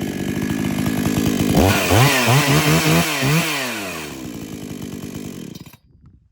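Two-stroke chainsaw engine idling, then revved hard several times about a second and a half in with the pitch climbing and falling, settling back down and cutting off abruptly near the end.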